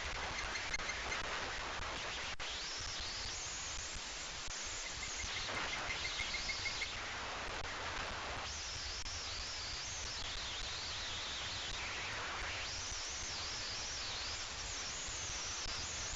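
Steady outdoor background hiss with faint, wavering high-pitched bird calls coming and going, a couple of short runs of rapid repeated pips, and a single click a little over two seconds in.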